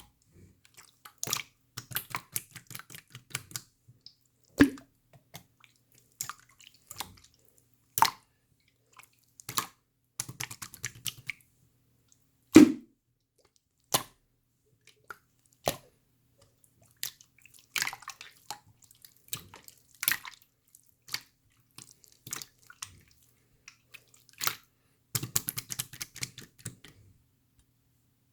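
Slime being squeezed, stretched and pressed by hand, giving irregular sticky pops, clicks and short wet crackles with pauses between them, a few pops standing out louder. It stops a little before the end.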